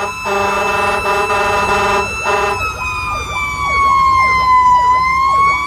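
Fire engine's warning devices while responding: a steady air-horn-like tone for about two and a half seconds, then a siren wail whose pitch slowly falls and rises again near the end, with a faster repeating yelp-like sweep beneath it.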